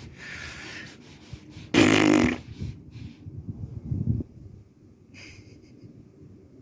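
A man breathing out heavily, with one loud, voiced sigh about two seconds in and softer breaths after it.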